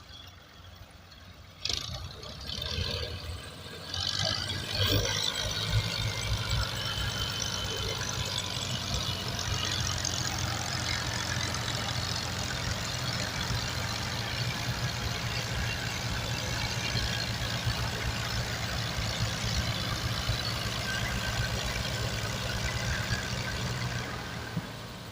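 Tractor diesel engine noise comes in suddenly about two seconds in, grows louder around four to five seconds, then runs steadily before easing off near the end.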